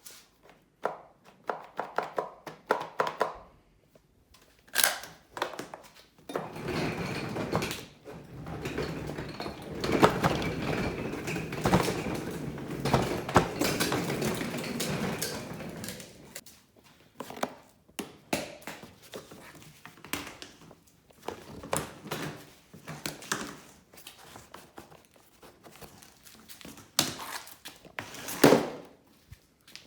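Vacuum-cleaner scrap being handled and taken apart: a series of knocks and clicks, with a busier stretch of rattling and scraping from about six to sixteen seconds in, and a sharp knock near the end.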